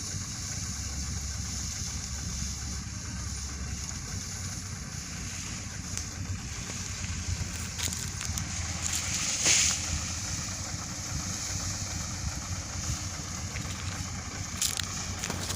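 Truck engine running steadily with a low rumble, with wind noise on the microphone. A brief louder burst comes about nine and a half seconds in.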